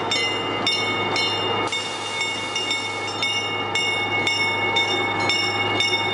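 Centreville miniature train running along its track: a steady low hum with several steady high-pitched tones over it, and clicks about twice a second.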